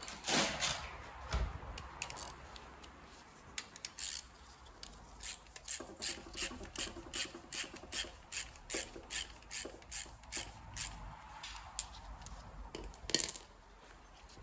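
Hand tools at work on the timing end of a 1.6 HDi/TDCi diesel engine: a run of short rasping, clicking strokes about two a second, with a sharper knock near the start and another near the end.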